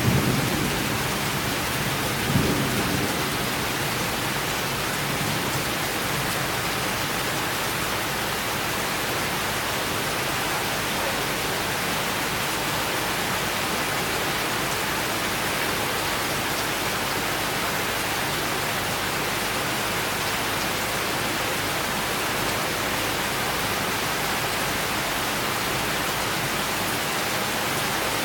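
Steady rain falling in a summer thunderstorm, an even hiss, with a last low rumble of thunder dying away in the first few seconds.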